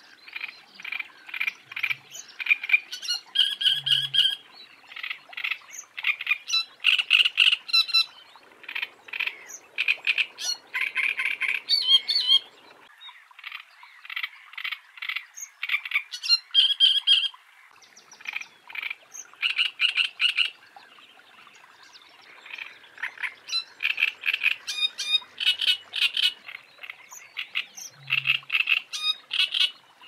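Great reed warbler singing its harsh, croaking song: phrases of repeated grating notes in bursts of about two to four seconds, with short pauses between.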